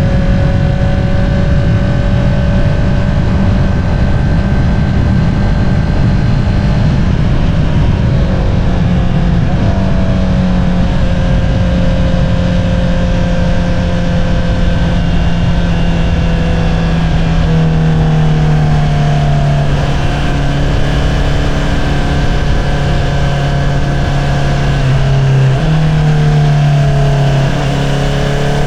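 2022 Honda CBR650R's inline-four engine running through an Akrapovič single-outlet exhaust while riding, over a steady rush of wind. The engine note holds steady at first, then slowly falls as the revs drop, with a couple of brief rises in revs near the end.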